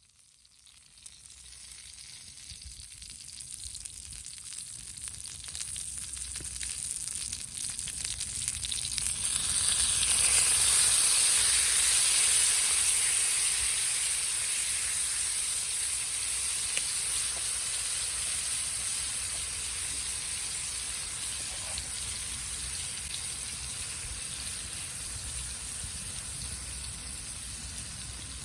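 Food frying and sizzling in a hot pan. The sizzle builds from quiet to its loudest about ten seconds in, then slowly eases off.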